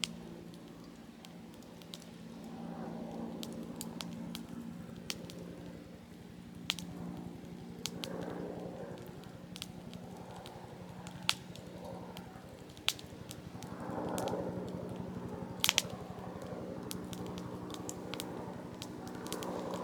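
Softwood campfire crackling in a Picogrill 398 fire pit, with sharp pops every second or two. Wind rushes over it in gusts, over a steady low drone in the background.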